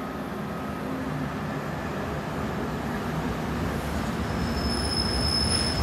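Train rumbling along the tracks, the low rumble growing steadily louder, with a thin high-pitched wheel squeal setting in about four to five seconds in.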